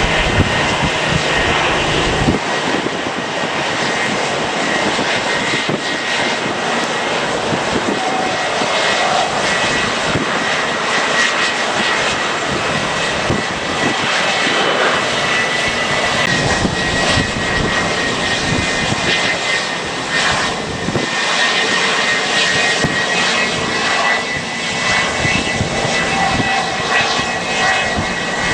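Jet airliner engines running, a dense roar with a steady high whine over it, with wind buffeting the microphone in gusts.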